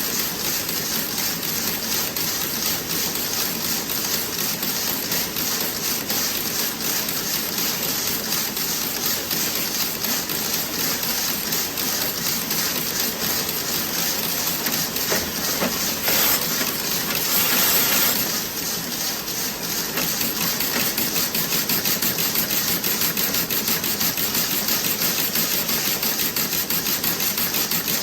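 Toe-sock knitting machine running, its needles and cams clattering in a fast, even rattle, with a brief louder hiss about two-thirds of the way through.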